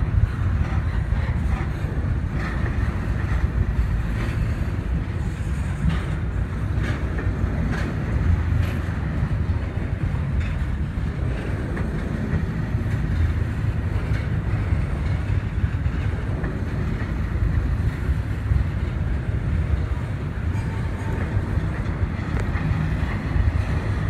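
Train rolling past: a steady low rumble of wheels on rail, with a few sharp clicks in the middle.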